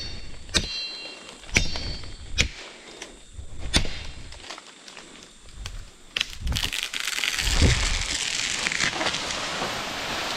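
A palm trunk being chopped, about five sharp strokes in the first four seconds. Then the palm tree comes down, a long crashing rustle of fronds and breaking wood from about six seconds in.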